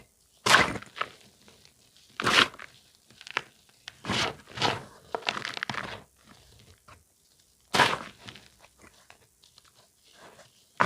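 Pressed (reformed) charcoal powder crunching and crumbling as it is crushed. The crunches come one at a time a second or two apart, with a quick run of smaller crunches around the middle.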